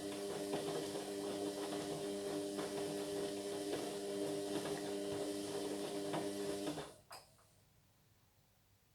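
Indesit MyTime washing machine running with a steady mechanical hum. It cuts off about seven seconds in, followed by a single click.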